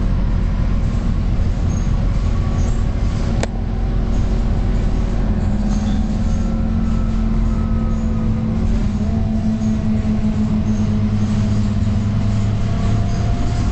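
Scania K230UB bus engine running steadily under way, its note stepping up and growing stronger about two-thirds of the way through, with one short click about three and a half seconds in.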